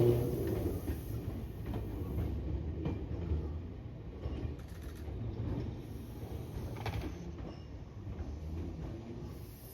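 Electric train of a Tobu 850-series set coupled to a 100-series Spacia running along the track, its low rumble and wheel clatter loudest at first and then fading as it moves away.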